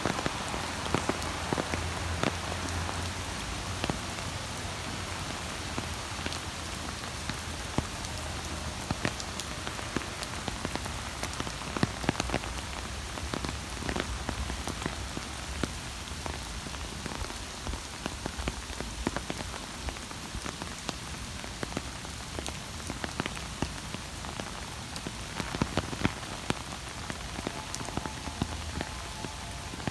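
Steady rain falling, with frequent sharp ticks of single drops close by and a low rumble underneath.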